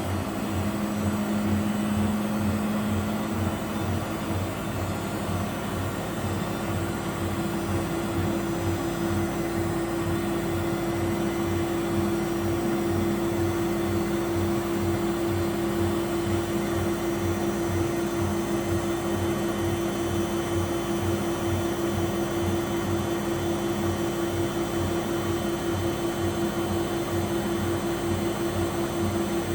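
Miele W761 front-loading washing machine spinning steadily at speed: a constant motor whine with an even, rapid low pulsing from the turning drum. The owner says the motor bearings are audibly 'extravagant', a sign of bearing wear.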